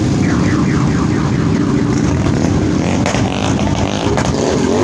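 Motorcycle engines running, a loud, steady low rumble.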